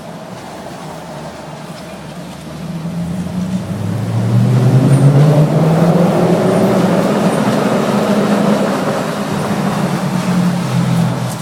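2006 Audi S4 (B7) 4.2-litre V8 through custom 2.5-inch downpipes and a Milltek exhaust, idling, then revved up about three seconds in and held at raised revs for several seconds before dropping back near the end. It is quite raspy and echoes in an enclosed parking garage.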